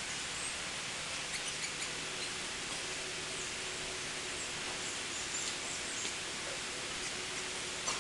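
Scattered short, high, thin chirps from a flock of tanagers over a steady background hiss.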